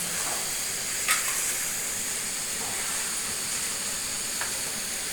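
Chicken sizzling in a pan on a gas stove, a steady frying hiss, with a sharp click about a second in.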